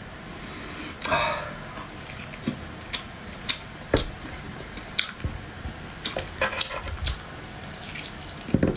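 Close-miked eating sounds: a scattering of short, sharp wet clicks and smacks from chewing, with a longer, louder sound about a second in.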